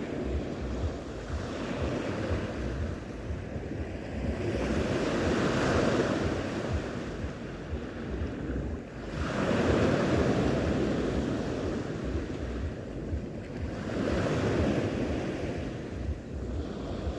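Sea waves breaking and washing ashore, swelling loud about every four to five seconds, with wind buffeting the microphone.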